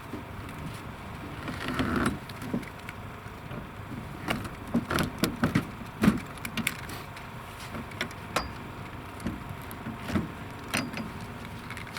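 Irregular knocks and clatters, densest about four to seven seconds in, over a steady low motor hum.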